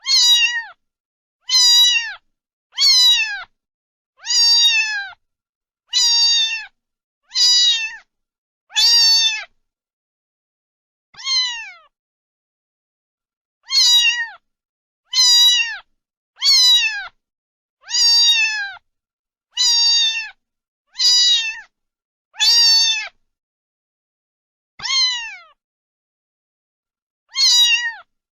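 A cat meowing over and over, a short meow falling in pitch about every one to two seconds, with a few longer pauses.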